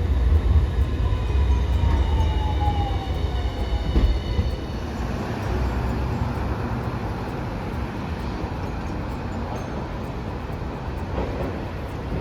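Hiroshima Electric Railway streetcar running by on street track: a low rumble and a whine that slides down in pitch over the first few seconds, with a thud about four seconds in. The rumble then gives way to steady background noise.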